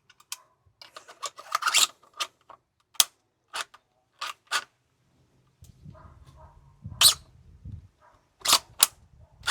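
A series of sharp plastic-and-metal clicks and clacks, about ten spread unevenly, from a 3D-printed gas-powered airsoft bolt-action rifle being handled and its bolt worked out while the trigger is failing to reset. A low steady hum sits under the clicks for a couple of seconds past the middle.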